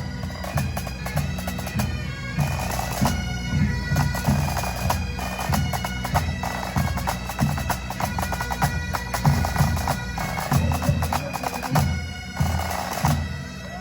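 A pipe band playing: bagpipes sounding over their steady drones, with drums beating underneath.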